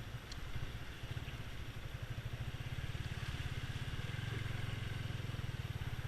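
Motorcycle engine idling with a low, even pulse.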